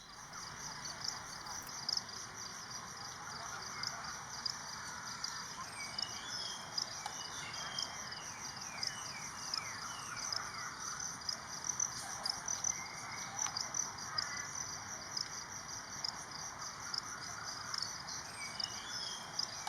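Steady, fast-pulsing insect chirr, like a cricket, over a hiss of outdoor ambience. A bird gives a run of short falling whistled notes about six seconds in and again near the end.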